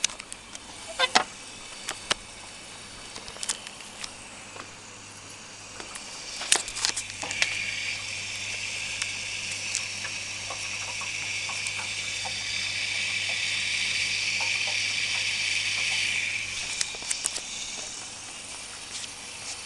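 Washing machine at work: a hiss of rushing water starts about six seconds in, grows steadily, and stops fairly suddenly about ten seconds later, over a low steady hum, with scattered sharp clicks.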